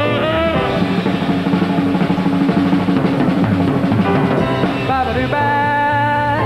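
Swing jazz band in an instrumental break: a drum solo on a kit with snare rolls and bass drum, after which the band comes back in with held notes near the end.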